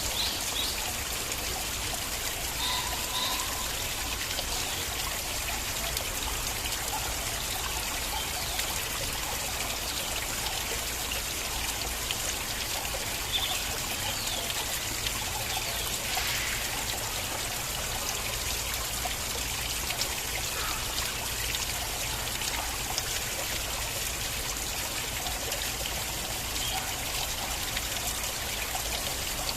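Small stream of water flowing and trickling steadily, with small splashes and drips here and there.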